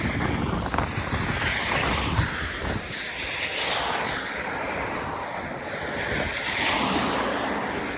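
Wind gusting over the microphone, a rushing, rumbling noise that swells and eases.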